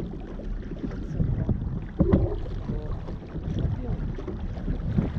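Wind buffeting the microphone, with water washing along the hull of a small sailing dinghy under way; the low rumble rises and falls in gusts.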